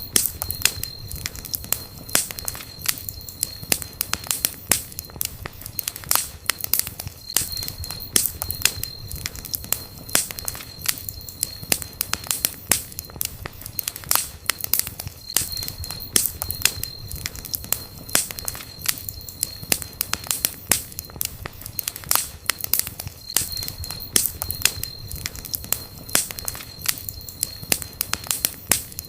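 Wood campfire crackling, with many sharp pops and snaps over a soft hiss. A faint high whistle comes and goes every several seconds.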